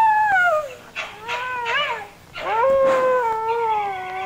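Fox calling with whining cries. First a long call falls in pitch, then a few short, wavering calls come between about one and two seconds in, then a second long call starts about two and a half seconds in and slowly falls.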